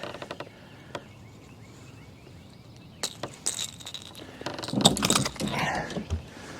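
Small metallic clinks and rattles of a lure's treble hooks as they are worked out of a landed largemouth bass by hand, in scattered clusters with a louder stretch of handling and shuffling noise about five seconds in.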